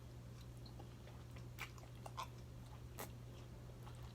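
Faint close-up chewing of seafood and pasta, with a few sharp wet clicks from the mouth, over a steady low hum.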